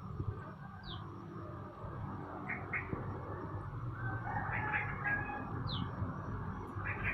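Caged songbirds calling with scattered short chirps and whistled notes, including two quick high falling whistles, over a steady low background rumble.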